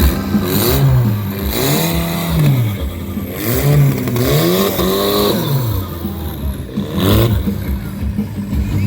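A vehicle engine revved hard again and again, its pitch rising and falling about once a second, with a few short noisy bursts mixed in.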